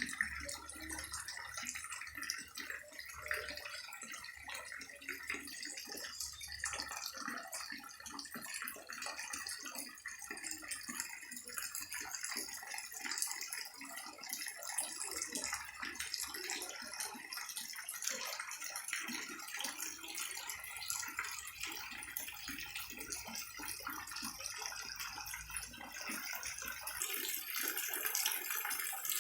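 Heavy rain falling steadily, a dense hiss of drops with many small splashes; it grows a little louder near the end.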